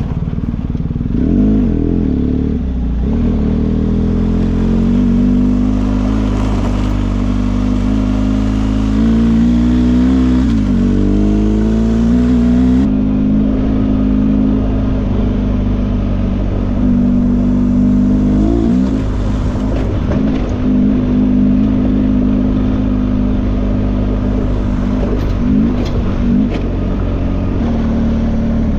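Motorcycle engine running under way with a steady rush of wind noise. Its pitch dips and climbs again several times as the revs change.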